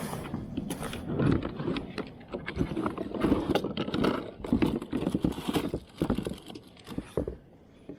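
Irregular knocks, taps and rustling from handling on a fishing kayak. They are busiest for the first six seconds and then die down.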